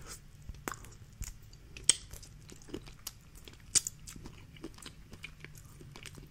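Close-miked eating sounds of seafood-boil shrimp being chewed, with scattered small clicks and crackles and two loud sharp snaps about two seconds apart.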